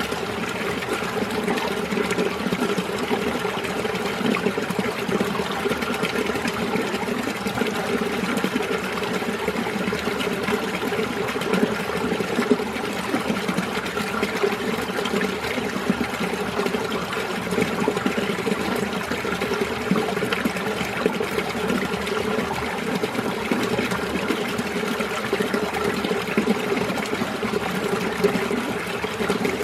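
Winter mountain stream running over rocks, a steady babbling and trickling of water with no pauses.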